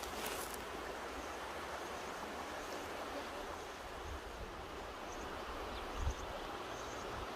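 Mountain river rushing steadily over rocks. A brief low buffet of wind on the microphone about six seconds in.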